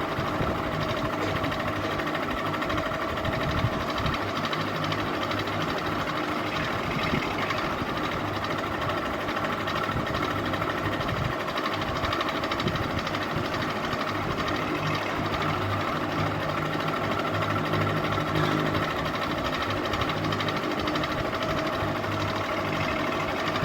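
Ceiling fan running steadily, its motor humming with a few fixed tones over the rush of the blades.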